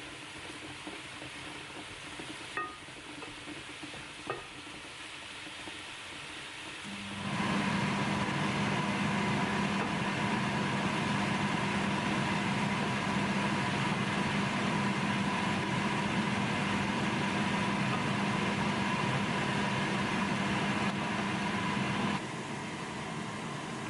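Two light clicks, then a small electric kitchen appliance motor switches on and runs at a steady hum for about fifteen seconds before stopping suddenly.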